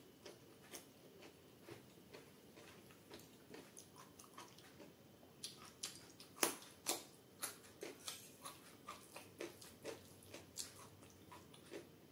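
Close-up eating sounds: chewing of hand-fed rice and chana dal dubke, heard as many small wet clicks that get busier in the second half, when a raw carrot slice is bitten and chewed.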